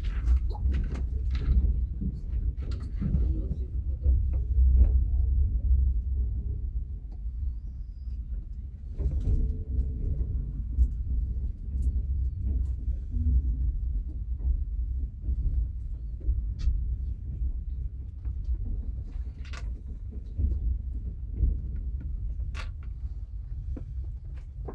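A passenger train running, heard inside a platzkart sleeping carriage: a steady low rumble, with scattered clicks and knocks over it.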